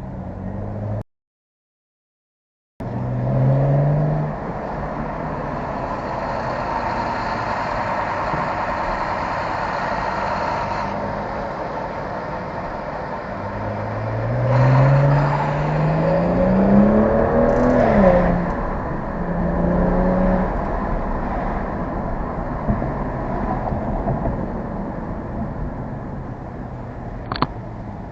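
BMW N55 turbocharged inline-six car engine under way. After a brief audio dropout it revs up, cruises steadily, then pulls through a long acceleration whose pitch climbs and falls away. A sharp click comes near the end.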